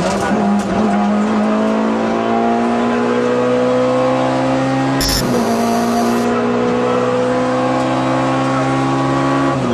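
Peugeot 106 A5 kit car rally engine heard from inside the cockpit, running flat out with its revs climbing steadily through a gear. It shifts up about five seconds in with a brief hiss, then climbs again to another upshift near the end.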